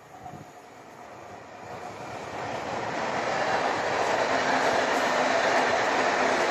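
Locomotive-hauled passenger train passing through a station on a far track, its rolling noise growing steadily louder as the coaches come up and run by.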